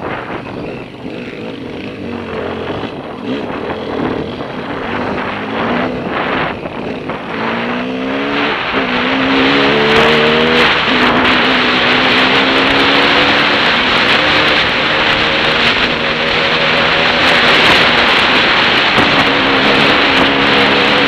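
Dirt bike engine running under way, climbing in pitch a couple of times between about seven and eleven seconds in as it accelerates, then holding fairly steady. Heavy wind noise on the helmet-mounted microphone, louder from about ten seconds in.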